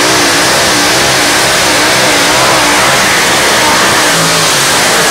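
Pulling tractor's engine running loud and hard, its pitch wavering up and down.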